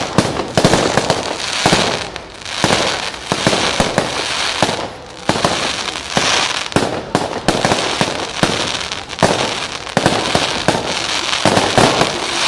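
Fireworks display: a dense, continuous barrage of bangs and crackling from bursting shells, with many sharp reports layered over a steady hiss and crackle.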